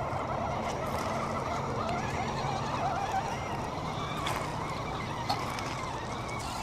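Electric motors of scale RC rock crawlers whining, the pitch wavering as the throttle changes, with a few sharp clicks from the trucks working over the terrain.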